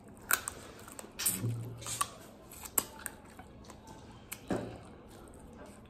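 Close-up mouth sounds of a person chewing a mouthful of chicken pickle and rice: wet lip smacks and sharp clicks, spaced irregularly, with a short hummed "mm" about a second and a half in.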